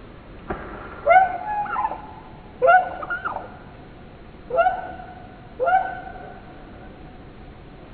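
A bird calling four times, each a short cry with several stacked tones; the first two calls are longer and waver at the end, the last two are held steady and fade out.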